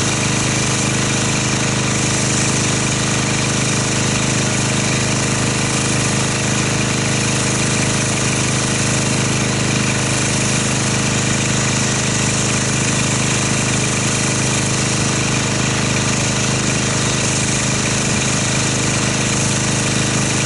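Pressure washer running steadily: its motor and pump drone under the hiss of the water spray as soap is rinsed off a car.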